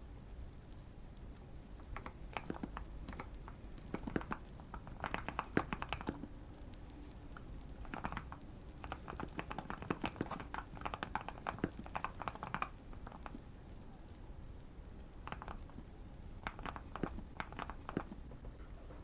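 Typing on a tape- and foam-modded Keychron Q1 mechanical keyboard: bursts of rapid keystrokes separated by short pauses, four or five bursts in all.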